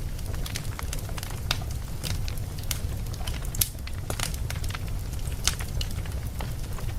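Wood fire crackling: irregular sharp pops and snaps, a few louder ones standing out, over a steady low rumble from the burning fire.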